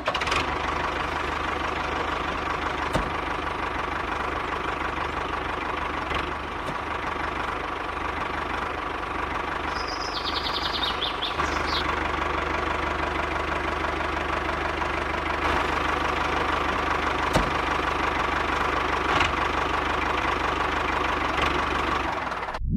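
Small DC gear motor of a homemade model tractor running steadily, its gears whirring, with a few sharp clicks and a brief high chirp about halfway.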